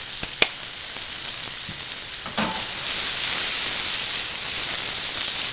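Artichoke pieces frying in a sauté pan, a steady sizzle with one sharp click under a second in. About two and a half seconds in the pan is flipped, and the sizzle grows louder.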